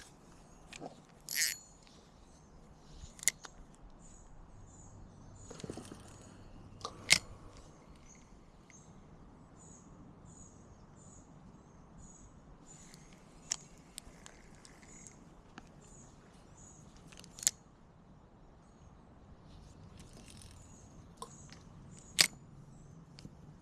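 A small bird chirping in short, high notes repeated several times a second, with a few sharp clicks and knocks.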